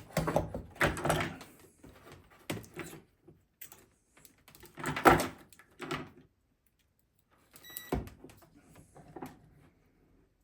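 Irregular knocks, scrapes and rustles of hard parts being handled, loudest about five seconds in, with a sharp click and a brief ring about eight seconds in.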